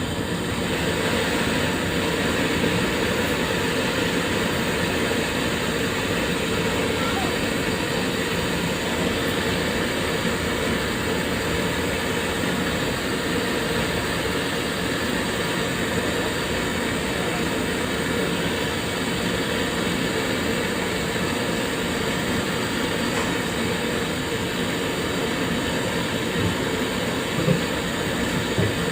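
Steady mechanical running noise, a dense rumble and hiss that stays level throughout, with two brief knocks near the end.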